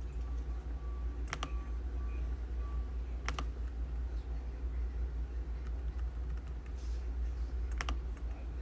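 Computer keyboard and mouse clicks, a few scattered keystrokes over a steady low hum.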